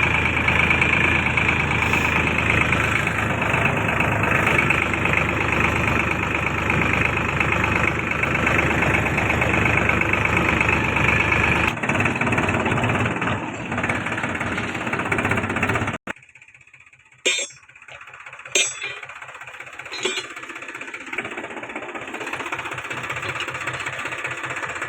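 Tractor engine running steadily and loudly for about sixteen seconds, then cutting off abruptly. A quieter stretch follows with a couple of sharp clacks and a fainter engine sound.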